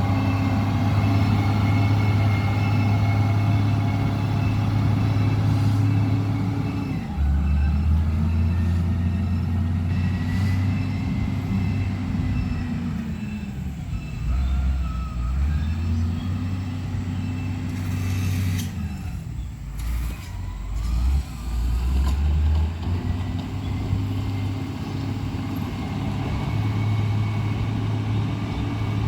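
Heavy diesel engine working under load, its revs rising and falling several times with a few deep drops in pitch along the way.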